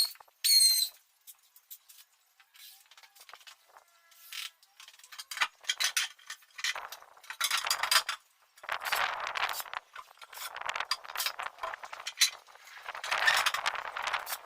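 Clinks, knocks and scraping from hands-on carpentry work on a closet, with a short high squeak about half a second in and denser rubbing and scraping in the second half.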